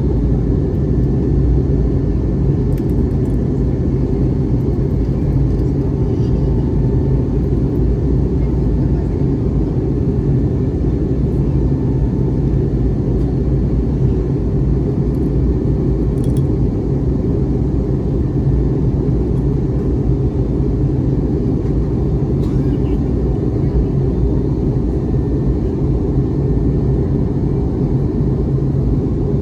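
Steady low rumble of engine and air noise inside the cabin of an Airbus A321neo airliner, even and unchanging throughout.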